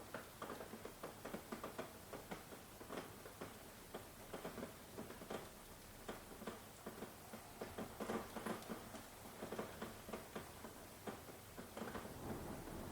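Rain falling, heard as a quiet, steady hiss with many irregular taps of individual drops.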